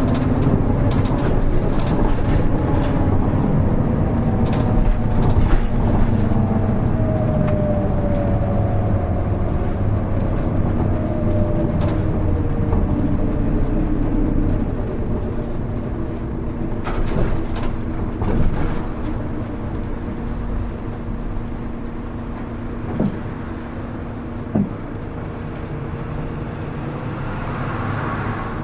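Isuzu KL-HR1JNEE route bus running, heard from inside the cabin: a steady diesel engine and drivetrain drone. The engine note falls in pitch in the first half, then holds steady, with two short knocks a second and a half apart near the end.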